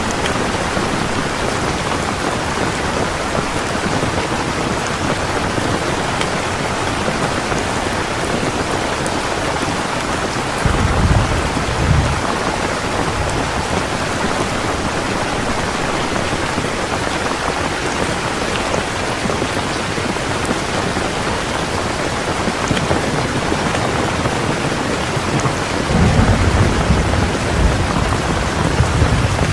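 Heavy rain falling steadily, with thunder rumbling low twice: briefly about a third of the way in, and longer near the end.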